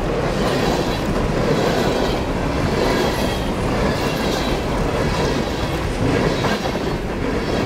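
Coal train cars rolling past close by: a steady loud rumble and clatter of steel wheels on the rails, with a thin high wheel squeal running under it.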